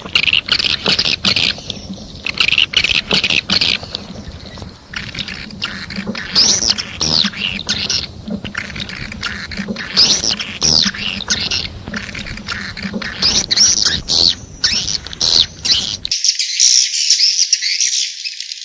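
Swiftlet calls: many birds twittering and chirping at once, with short arching chirps and rapid sharp clicks. About 16 s in the low background drops away, leaving only the high twittering.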